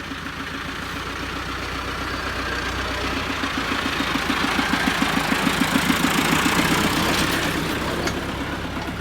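A motor vehicle's engine passing by with a low, steady pulsing. It grows louder to a peak about six seconds in, then fades away.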